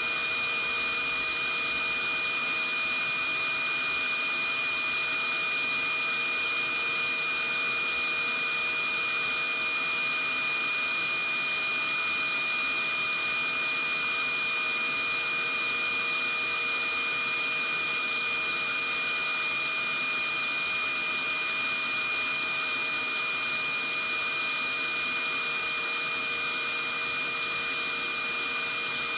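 Vacuum cleaner running steadily: a constant rush of air with an unchanging high whine from the motor.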